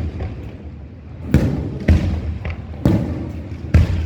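Fireworks shells bursting in the air: four sharp booms, each trailing off in a low rumble, with a smaller pop between the second and third.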